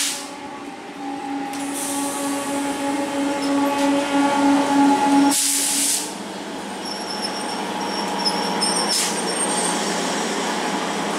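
Electric multiple unit (EMU) local train running past on the tracks, its coaches rushing by. A steady hum sounds in the first half and stops abruptly about five and a half seconds in; a faint high wheel squeal follows later.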